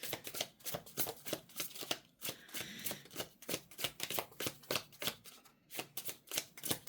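Tarot deck being shuffled by hand: a quick, irregular run of card flicks and taps, several a second, as the cards are worked through.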